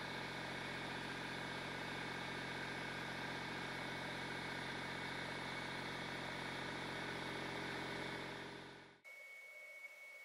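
Car engine idling steadily, heard from inside the cabin; it fades out about nine seconds in.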